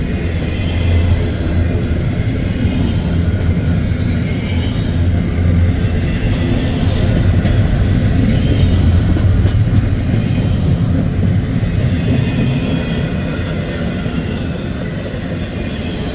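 Double-stack intermodal freight train of loaded container well cars rolling past at close range: a steady, loud rumble of steel wheels on the rails.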